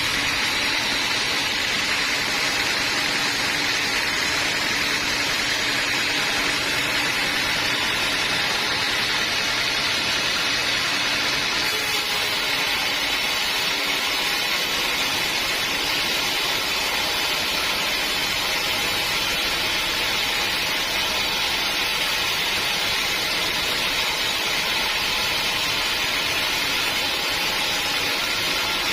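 Band sawmill running steadily, a constant machine drone with a hiss over it.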